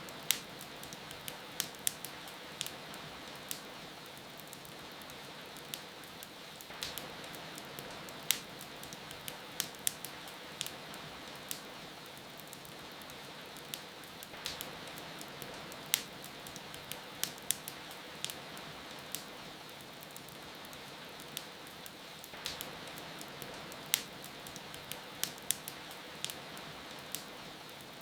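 Wood fire crackling, with sharp irregular pops and snaps, over a steady hiss of rain.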